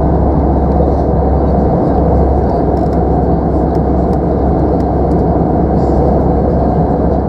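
Steady cabin noise of an Airbus A319 airliner in flight: the even rush of airflow and engine noise inside the passenger cabin.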